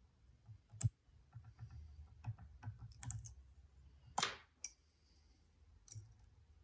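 Lock pick and tension wrench working in the keyway of a Stanley padlock: scattered small metallic clicks and ticks, with a sharp click about a second in and a brief scrape a little after four seconds.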